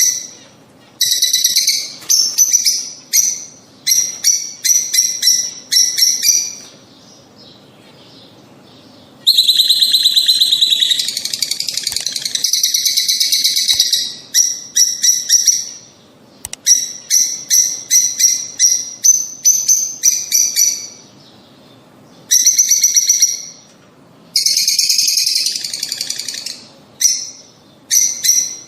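Lovebirds calling: bouts of rapid, high-pitched chirps a few seconds long, with short pauses between them.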